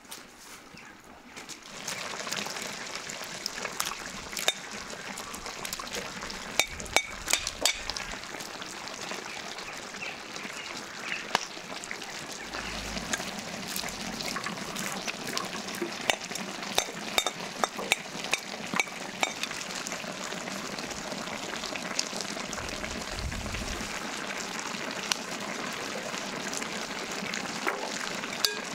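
Food frying in hot oil: a steady sizzle that starts abruptly about two seconds in, with scattered sharp pops and crackles.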